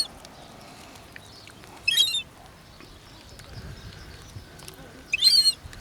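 Gull giving two short, high-pitched squealing calls, one about two seconds in and one near the end. The calls sound young, though the bird is a fully grown adult.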